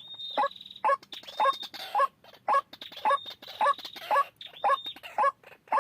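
White-breasted waterhen (ruak-ruak) giving its harsh, repeated 'kruak-kruak' call, a steady run of short notes at about two a second.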